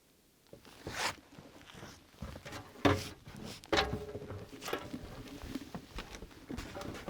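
Irregular rustling, scraping and sharp knocks of someone moving about and handling things, with a brief squeak about four seconds in.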